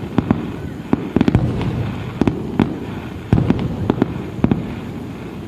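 Aerial fireworks bursting at a distance, a quick irregular string of bangs and crackles, several a second, over a continuous rumble of the display.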